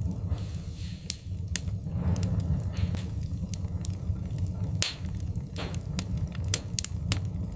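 Wood fire burning in a fireplace: irregular sharp crackles and pops from the burning logs, several a second, over a steady low rumble of the flames, with a few brief soft hissing flare-ups.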